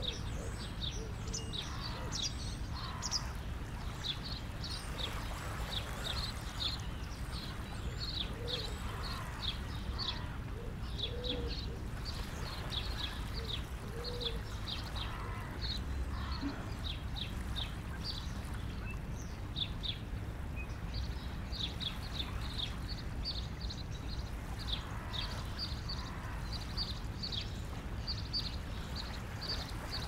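Small birds chirping continuously: many short, high chirps, several a second, over a steady low background rush.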